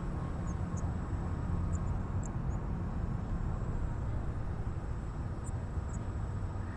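Girbau HS4012 commercial washer-extractor running in its wash cycle with a steady low hum, a few faint ticks above it.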